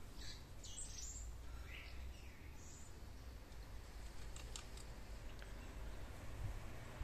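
Faint bird chirps, several short calls in the first three seconds, over a low steady background rumble, with a few short ticks a little past the middle.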